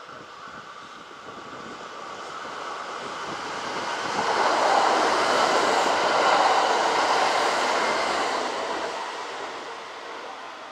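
Kintetsu electric train passing through the station, its running noise swelling to a peak about halfway and then fading away.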